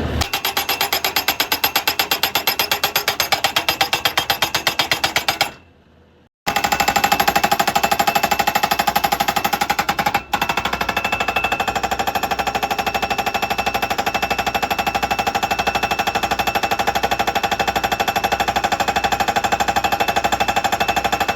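Hydraulic hammer attachment on a Bobcat skid steer pounding in rapid, steady, even strokes. It stops for under a second about six seconds in, starts again, and cuts out for a moment about ten seconds in.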